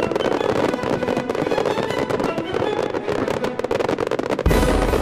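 Aerial display fireworks crackling, with many rapid small pops and crackles from bursting shells, over background music. About four and a half seconds in, the music's heavy bass comes back in suddenly and loudly.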